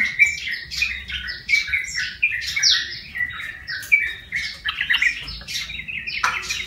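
Yellow-vented bulbul (trucukan) calling in a quick run of short, chattering notes, several a second without a break.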